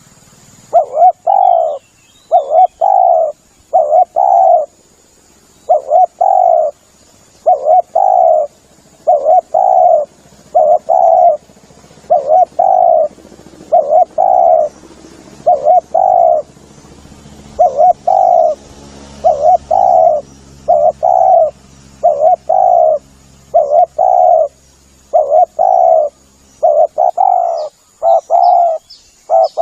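Spotted dove cooing over and over, in short phrases of two or three coo notes about every one and a half to two seconds.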